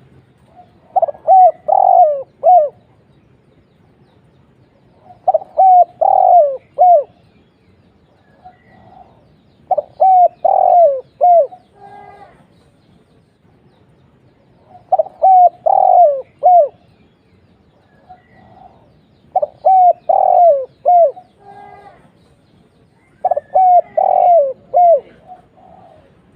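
Spotted dove (tekukur) cooing: six repeated phrases, each a quick run of four or five deep, downward-curving coo notes, spaced about four to five seconds apart.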